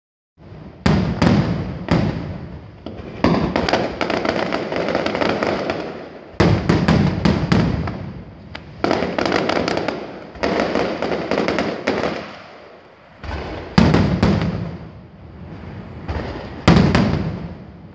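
Aerial firework shells bursting overhead in quick succession. Clusters of sharp bangs come every few seconds, each followed by a rumbling, crackling tail that echoes off the surrounding buildings.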